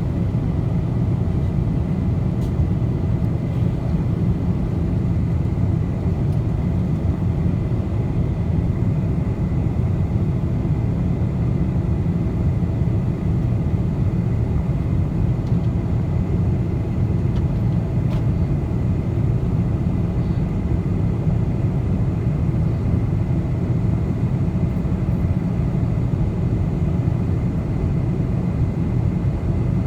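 Steady low roar of a Boeing 747 in flight, from engines and airflow as heard inside the passenger cabin, with a faint steady high tone above it.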